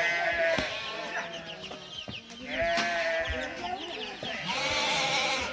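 Sheep bleating: several overlapping, quavering calls in three bouts, at the start, around the middle and near the end.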